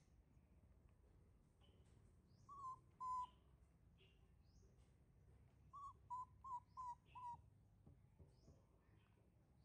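Birds calling in the background: two short whistled hoots, then a quick run of five, with faint high chirps among them, over a low hush.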